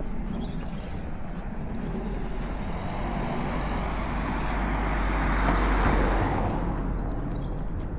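A motor vehicle passing close by on a road, its noise swelling to a peak about six seconds in and then fading, over a steady low rumble of traffic.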